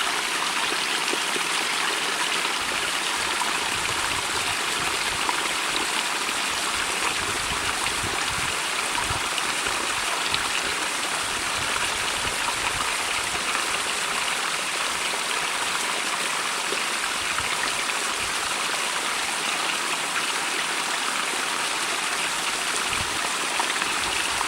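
Small stream running over rocks in a narrow rocky cleft: a steady rushing babble of water with no change.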